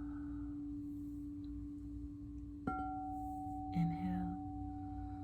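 Singing bowl ringing with a steady hum. About two and a half seconds in, a bowl is struck, adding a higher ringing tone that sustains, and a brief soft voice sound follows a second later.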